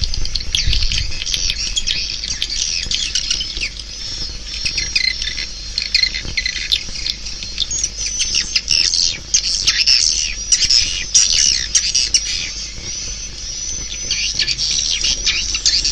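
A dense flock-like chorus of swiftlet calls: many overlapping high chirps and twitters with sharp clicks mixed in, running without a break. It is the kind of swiftlet call recording played to lure swiftlets into a nest house.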